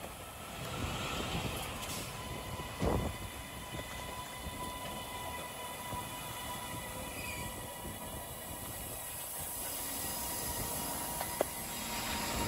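Northern CAF Civity passenger multiple unit moving along a station platform: a steady rumble with a faint steady whine. There is a short knock about 3 seconds in and another near the end.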